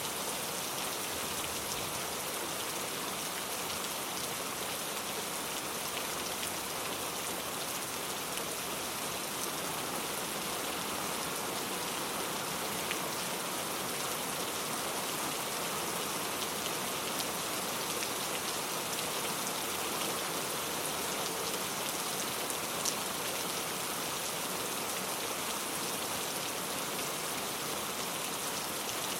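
Steady rain falling and pattering on surfaces, with many small drop ticks and an occasional louder drip.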